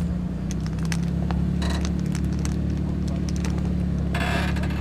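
Off-road Jeep engine running steadily at low revs while crawling over rock, with scattered light ticks and a short rushing noise near the end.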